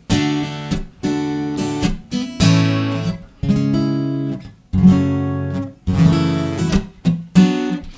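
Acoustic guitar strummed in a rhythmic pattern, starting on a D major chord and moving through simple chords. Each chord rings out and is cut by short silent breaks about every second or so.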